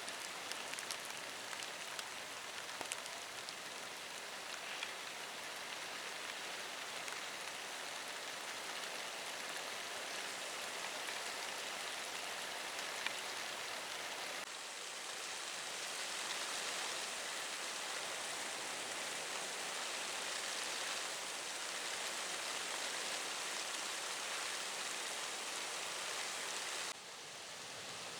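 Heavy typhoon rain falling, a steady hiss with a few sharp drop ticks in the first few seconds; the hiss gets a little louder about halfway and drops near the end.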